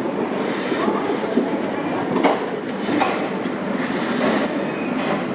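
Indian Railways passenger coach running on the rails, a steady rumble broken by sharp clacks of the wheels over rail joints, about one every second.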